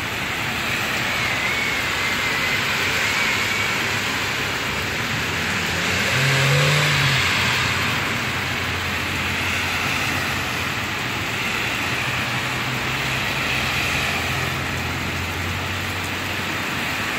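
Heavy rain pouring onto wet pavement, a steady hiss, with cars driving through the water: tyres swishing and an engine humming, loudest about six seconds in.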